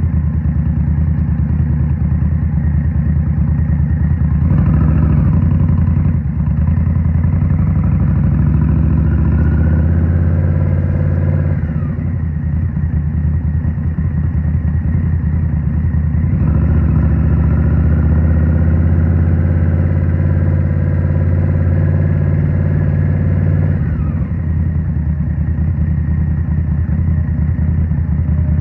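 Indian Scout Rogue's 69 cu-in V-twin running through a Rinehart slip-on exhaust. It pulls up through the revs about four seconds in and again about sixteen seconds in, and eases off around twelve seconds and again near twenty-four seconds.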